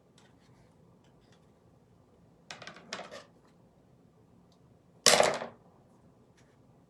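Scissors snipping through dried craft moss: a short cluster of quick cuts about two and a half seconds in, then one louder, sharper cut about five seconds in.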